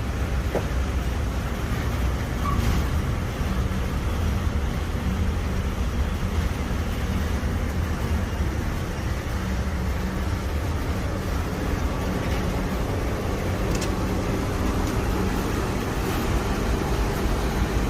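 Kitchen smoke-extractor fan on a 50 mm shaft running steadily, a constant low hum with a rushing noise above it.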